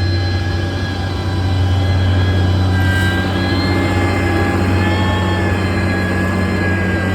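Heavy road-construction machine engine running steadily: a deep engine drone with a high, slightly wavering whine over it.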